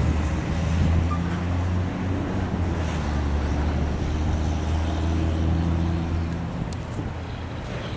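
Empty intermodal well cars of a freight train rolling past over the rails: a steady low rumble that fades somewhat about six seconds in as the last car moves away.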